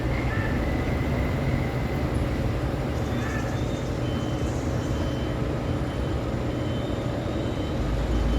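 Steady heavy road traffic: engines of trucks, cars and motorcycles running past in a continuous rumble, with a faint high beep repeating about every three-quarters of a second through the second half.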